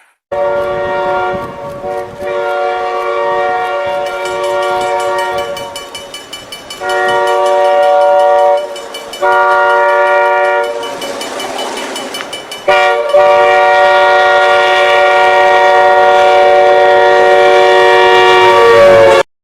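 Train horn sounding a chord of several tones in a series of blasts, a few short ones followed by one long blast that cuts off suddenly near the end.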